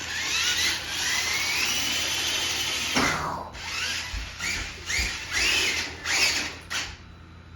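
Small electric motor of a toy monster truck whining at speed, its pitch rising for about three seconds, then revving in a string of short bursts before stopping about seven seconds in.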